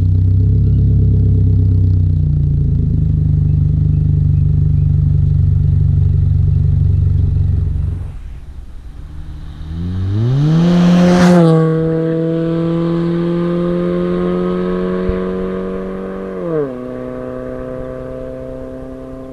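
A Chevy Cobalt's 2.2-litre four-cylinder engine running through a ZZP long-tube header and full 3-inch catless exhaust. First a steady, deep exhaust drone; then, after a sudden break about eight seconds in, the engine revs up in pitch and is loudest a few seconds later. It holds a steady note, drops in pitch near the end and fades.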